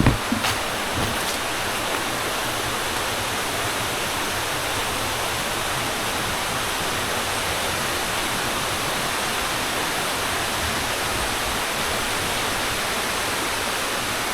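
Steady rushing of a river running over rocks and small cascades, with a few short knocks in the first second.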